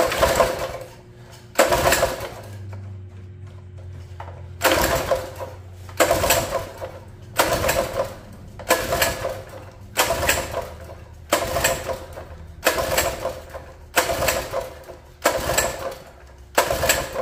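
Predator small engine of a mini bike being cranked with its pull-start recoil cord, about a dozen pulls in a steady rhythm, roughly one every 1.3 seconds. The engine does not catch between pulls; it was just drained of water and is not getting fuel.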